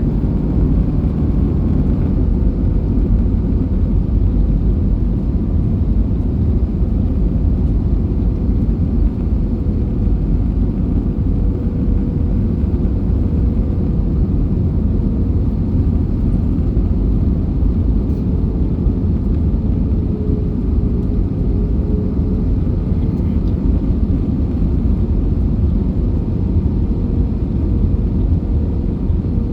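Steady low rumble of an Airbus A320 airliner in flight, its engines and airflow running evenly, with a faint steady hum above it.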